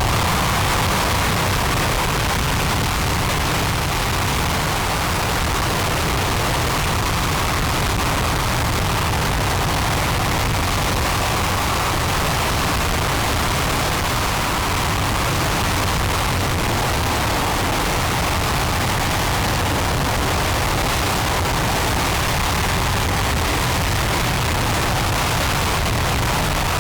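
RS-25 liquid-hydrogen/liquid-oxygen rocket engine firing steadily on a test stand: a loud, unbroken rush of noise at constant level.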